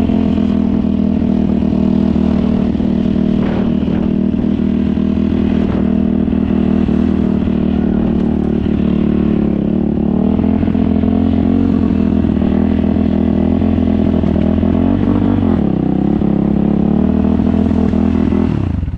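Mini bike's small two-stroke engine running at a steady speed. Its pitch dips briefly near the end before it cuts off abruptly.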